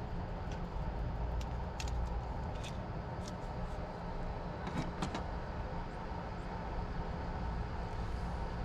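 Steady low rumble of a vehicle running, with a few light clicks or taps.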